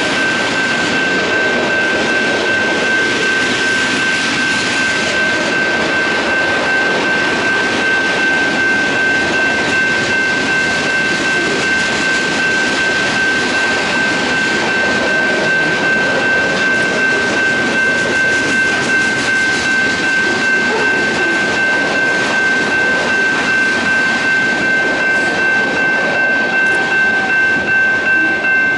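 Freight cars rolling past on steel rails: a continuous rumble and rattle of wheels and cars, with a steady high-pitched squeal held throughout. Near the end, regular clicks of wheels over the rail joints.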